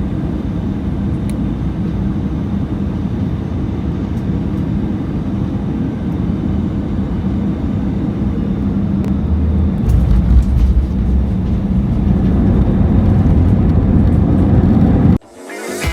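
Airbus A320 cabin noise on landing: a steady rumble of engines and rushing air. About ten seconds in, a deeper, louder rumble sets in, as at touchdown and roll-out on the runway. The sound cuts off abruptly near the end.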